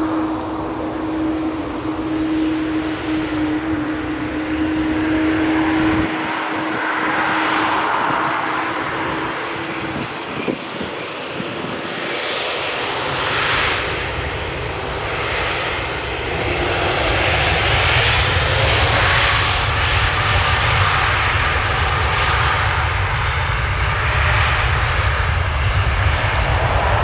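Boeing 787-9 Dreamliner's Rolls-Royce Trent 1000 jet engines at high power on departure. A steady hum with noise over it at first, then a deep rumble that builds about halfway through and holds.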